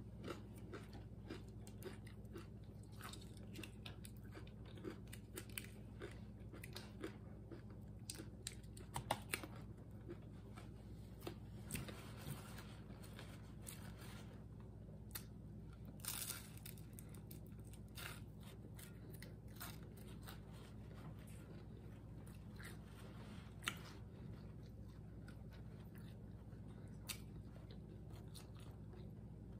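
Close-up chewing and crunching of crispy fried food: scattered short, crisp crunches between quieter chewing, over a faint steady low hum.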